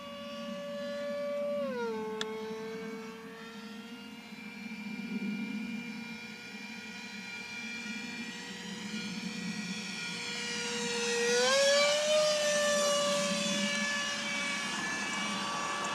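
64 mm electric ducted fan of an RC model jet whining in flight. Its pitch drops about two seconds in as the throttle is eased back, then climbs again near twelve seconds as the sound swells louder.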